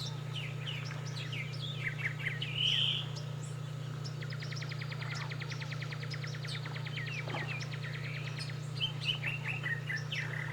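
Several birds chirping and calling, with a rapid, even trill through the middle, over a steady low hum.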